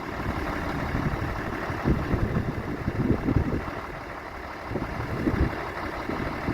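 International Harvester 1086's turbocharged six-cylinder diesel engine running at idle, a steady low rumble with a few uneven louder surges in the middle.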